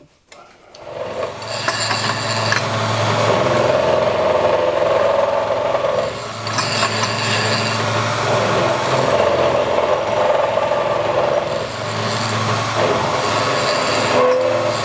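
Machine spindle running a milling cutter held in a drill chuck, cutting the tops off bosses on an outboard engine casting: a steady motor hum under a rough cutting noise. It starts about a second in and eases briefly twice, about six and twelve seconds in.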